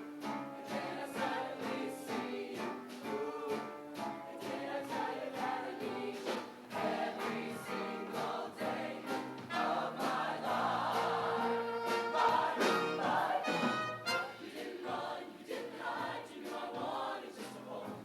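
Show choir singing a number with instrumental accompaniment, the voices moving together from note to note.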